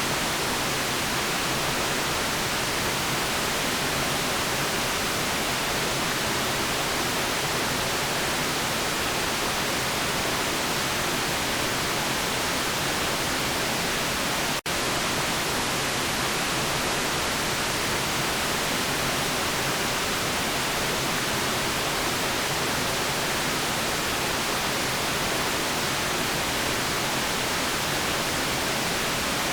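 Steady white noise, an even hiss across all pitches, broken by a split-second dropout about halfway through.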